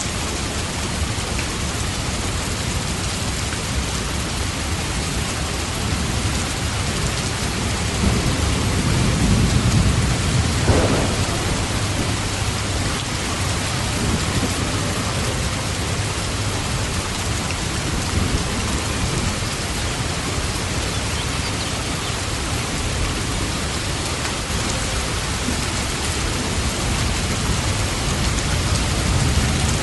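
Steady heavy rain, with a low roll of thunder swelling about eight seconds in and ending in a short crack a few seconds later.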